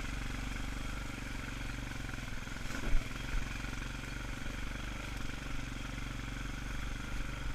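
ATV engine running steadily at low speed, with one brief knock about three seconds in.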